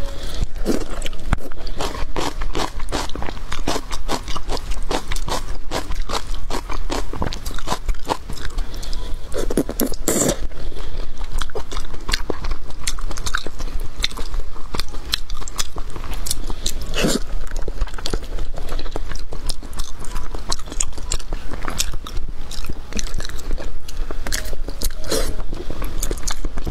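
Close-miked chewing and biting on braised pig's trotters: a dense, irregular run of sticky clicks and smacks from the mouth.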